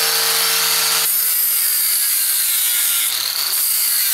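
Cutoff wheel cutting into the weld of a steel exhaust bracket: a loud, continuous grinding whine whose pitch drops about a second in as the wheel bites, and shifts again near three seconds.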